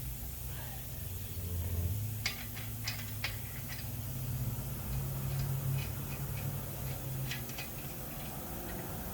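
Scattered light clicks and taps from work in a garage, a few close together about two seconds in and more a little past the middle, over a low steady hum.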